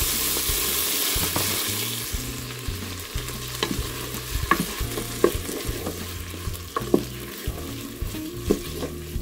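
Chopped fresh tomatoes hitting hot onions and margarine in a pot and sizzling, loud for the first couple of seconds and then settling, while a spoon stirs them with scattered clicks against the pot.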